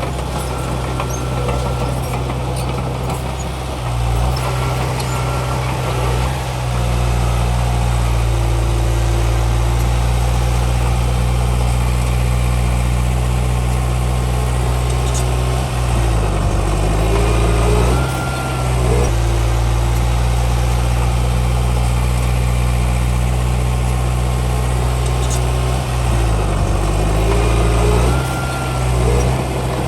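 Komatsu D31P bulldozer's diesel engine running steadily, its pitch dipping and rising again twice, about ten seconds apart.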